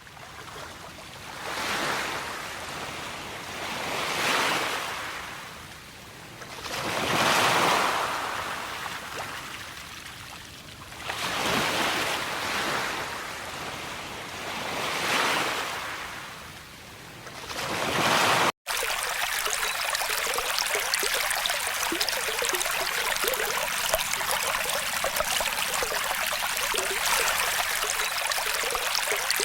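Waves washing up and drawing back, a swell of surf every three or four seconds. About two-thirds of the way through, it cuts off abruptly to a steady sound of trickling, running water.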